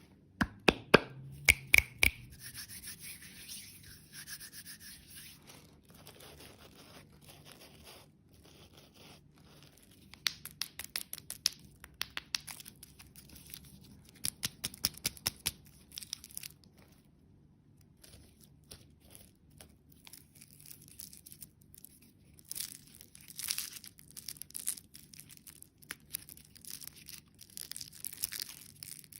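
Plastic packaging being handled: rustling, crinkling and tearing, with a few sharp clicks in the first two seconds and bursts of quick clicks further on.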